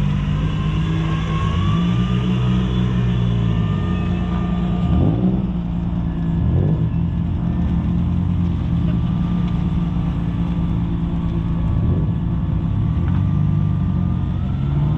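Modified cars' engines running at low revs, several at once, with a few short rev blips about five, six and a half and twelve seconds in.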